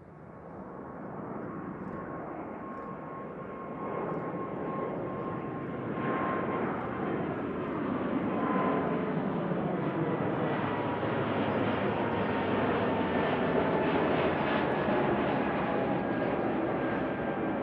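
Jet airliner's engines growing steadily louder as it approaches and passes, a dense roar with a thin whine that slowly falls in pitch.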